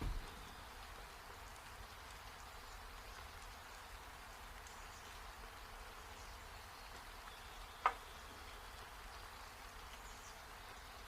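Faint steady hiss of rain falling. There is a low knock at the very start and a single short sharp click about eight seconds in.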